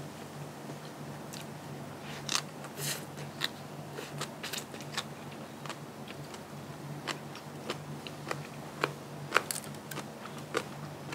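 Close-up mukbang eating: crisp crunching bites and wet chewing clicks, irregular, with the loudest crunches a little after two seconds and again about nine seconds in, over a low steady hum.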